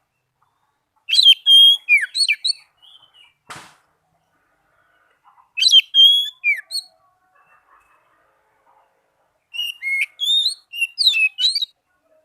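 Oriental magpie-robin (kacer) singing: three short phrases of clear whistled notes that slide up and down, separated by pauses of a few seconds, with a brief rustle between the first two.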